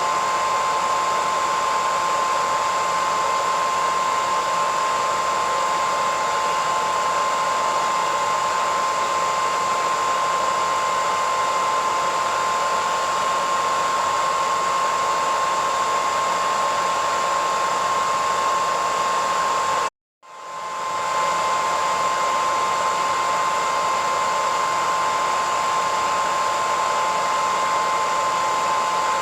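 Hair dryer running steadily: a rushing airflow with a steady high whine from the motor. About two-thirds of the way through it cuts out for a split second, then swells back up to full level.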